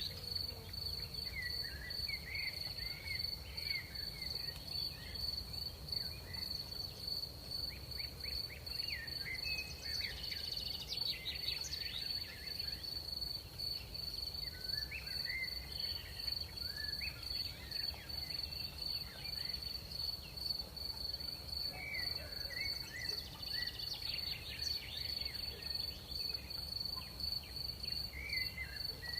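Crickets trilling in one steady, unbroken high tone, with bursts of shorter chirping calls coming and going every few seconds and a low background rumble of night air.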